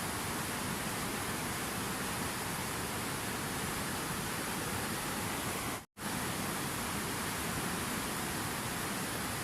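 Running water, a steady even rush with no changes in level. About six seconds in it cuts out to silence for a split second and then resumes.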